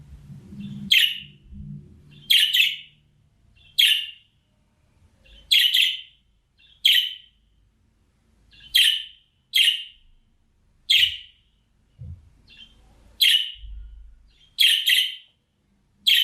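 Budgerigar giving a series of short, sharp, high chirps, about one a second at uneven intervals.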